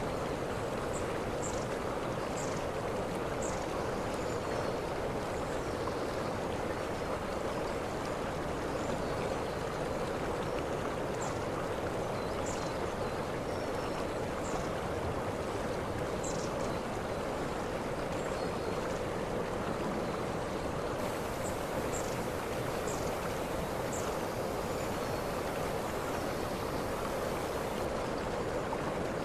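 Waterfall rushing steadily, with short high chirps here and there.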